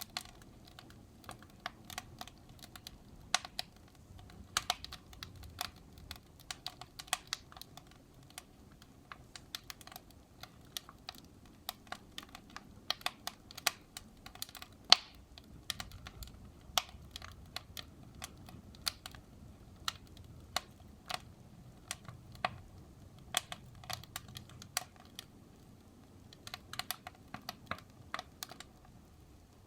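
Wood fire burning in a fireplace, crackling with many sharp, irregular pops and snaps over a faint low rumble of the flames; one pop about fifteen seconds in is louder than the rest.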